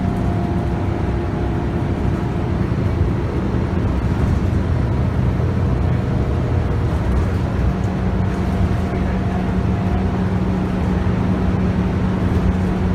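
Scania DC9 9.3-litre five-cylinder diesel of a Scania K280UB bus running steadily under way, heard from inside the cabin, with tyre and road noise.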